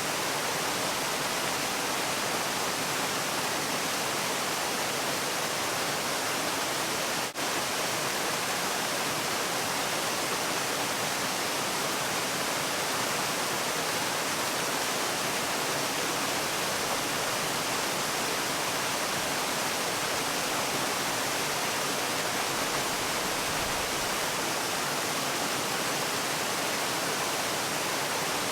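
Steady rushing of a waterfall, an even hiss across all pitches with no change in strength. There is a brief dropout in level about seven seconds in.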